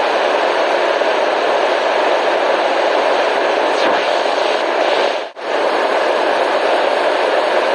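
Steady, even hiss of a white noise track, with a brief drop-out about five seconds in.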